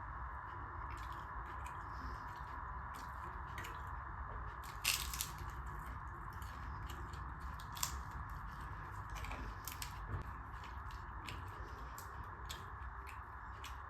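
A person chewing and biting tandoori butter roti with dal: irregular wet mouth clicks and smacks, the loudest about five seconds in, over a steady background hiss.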